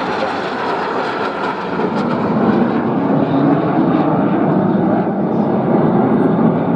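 Jet aircraft flying past in an airshow display, its engine roar growing louder about two seconds in.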